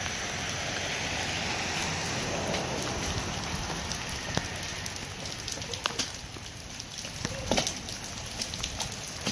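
Steady rain falling on pavement, with a few sharp taps scattered through it.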